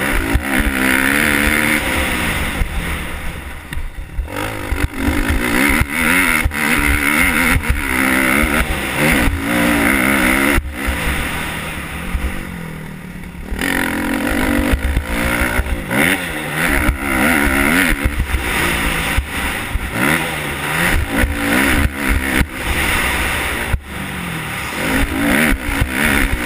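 Motocross bike engine revving up and down through a lap of a dirt track, the throttle opening and closing every second or two, with two short spells off the throttle, over a heavy low wind rumble on the microphone.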